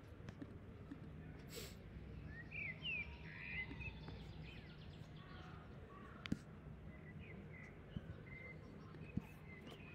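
Faint bird chirps over a low steady hum, with a few single sharp clicks.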